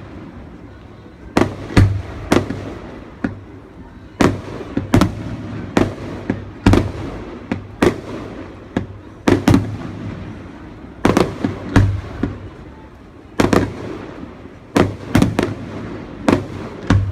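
Aerial fireworks bursting: an irregular string of sharp, loud bangs, many in quick pairs, each trailing off in a low rumbling echo.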